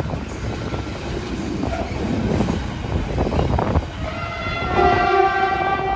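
A train running through a station with a continuous rail rumble, then its horn sounds about four seconds in and is held.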